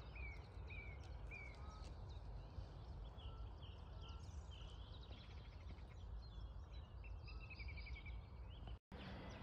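Birds calling: a run of short, repeated chirps, with a quick rattling trill a little past halfway, over faint steady background noise.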